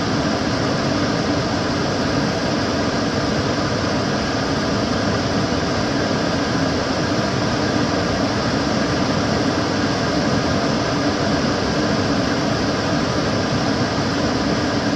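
Kitchen cooker hood extractor fan running steadily: an even rush of air with a low hum underneath and a few faint steady tones.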